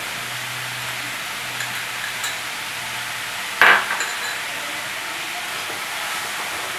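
Steady sizzle of chopped radish and radish greens frying in oil in a kadhai, with one sharp clink about halfway through and a few faint clicks.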